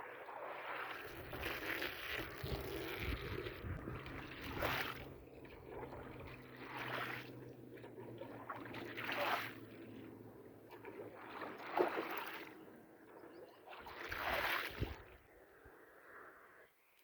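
Wet, muddy rug being washed: water swishing in sweeping strokes about every two and a half seconds, with a low steady hum under the first half. The sound stops just before the end.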